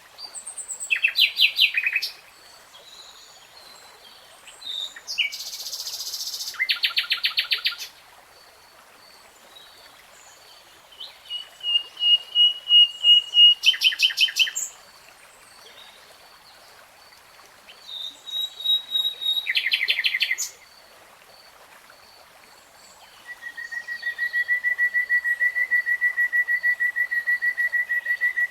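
A common nightingale singing in separate phrases of rapid repeated notes and trills, with short pauses between them. Near the end it holds one long, even trill.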